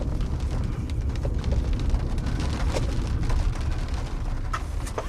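Rain hitting the car, scattered sharp ticks of drops, a few harder ones near the end, over a steady low rumble.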